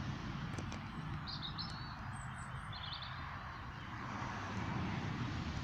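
A few short, high chirps from small birds, in two or three quick clusters in the first half, over a steady low background rumble.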